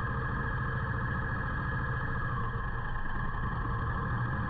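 Motorcycle engine running steadily, with a low drone that does not change in pitch.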